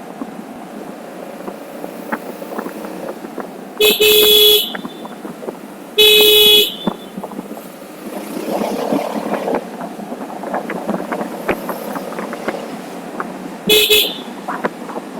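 A vehicle horn sounding three short blasts: two about two seconds apart, then a shorter one near the end. Under them runs a steady road and wind noise.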